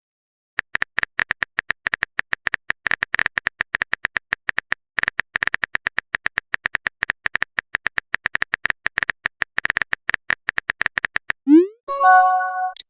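Rapid typing sound effect of a chat app: a fast, uneven run of short electronic clicks, each with a high beep, for about ten seconds. Near the end it stops, followed by a rising pop and a short chime, like a message arriving.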